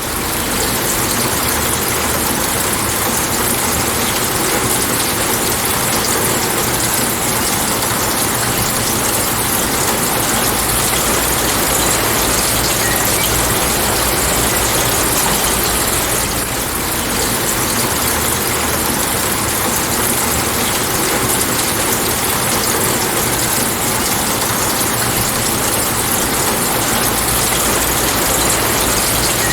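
Steady heavy rain, a continuous even hiss with a low rumble underneath.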